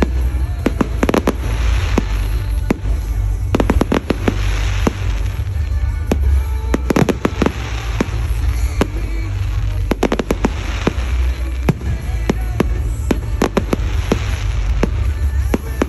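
Fireworks display: a dense, irregular barrage of bangs and cracks from exploding aerial shells, going off many times a second in clusters over a heavy low rumble.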